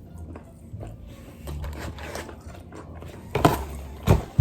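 Biting and chewing crispy fried popcorn chicken close to the microphone, crunching, with two louder crunches near the end.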